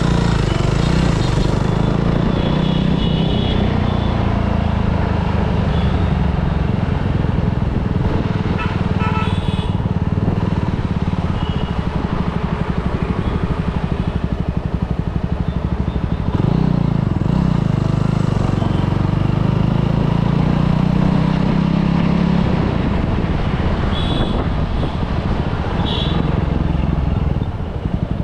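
Motorcycle engine running as it is ridden slowly through traffic, its pitch dipping and then rising again with the throttle about halfway through, over busy street noise.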